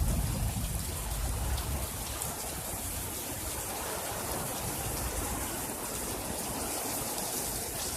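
Steady rain falling, an even hiss, with a low rumble in the first couple of seconds that fades out.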